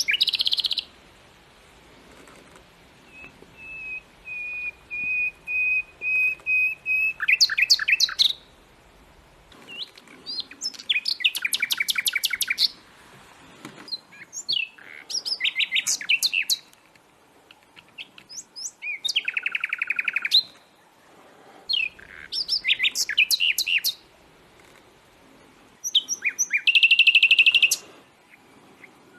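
A songbird singing in repeated phrases of rapid high trills and chirps, each a second or two long, with short pauses between them.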